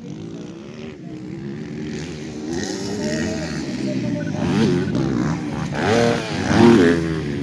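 Motocross motorcycle engines revving on the track, their pitch climbing and falling again and again as the riders work the throttle, louder toward the end.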